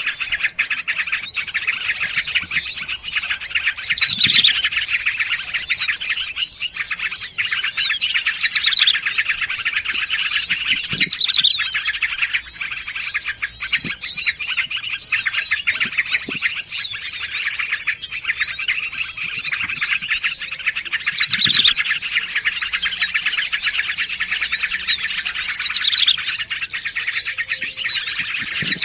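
Bird-lure recording: a dense, unbroken chorus of small songbirds chirping and twittering, layering calls of yellow-vented bulbul and prinia among other small forest birds, with a louder falling call every few seconds.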